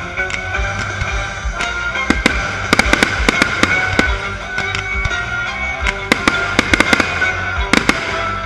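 Fireworks display: a rapid, irregular run of sharp bangs and crackles over music.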